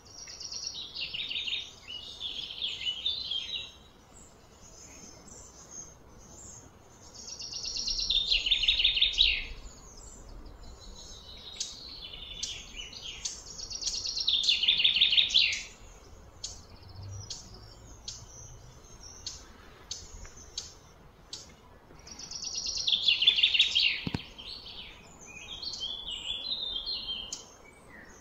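Birds singing: four loud, high trilling phrases a few seconds apart, each about two seconds long, with short chirps scattered between them.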